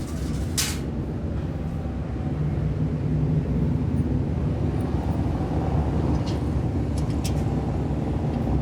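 Steady low mechanical rumble that grows a little louder about two and a half seconds in, with a few light clicks over it.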